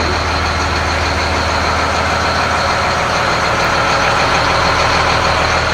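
A Blue Bird All American school bus's diesel engine idling steadily; the seller takes it for a Caterpillar C7 7.2-litre turbo diesel.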